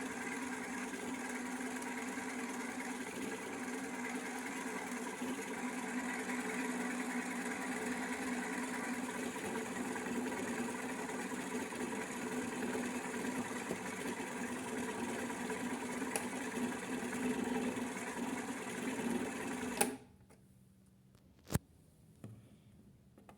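Mandy Piko toy washing machine's small electric motor running with a steady hum, then cutting off suddenly near the end, followed by a single sharp click.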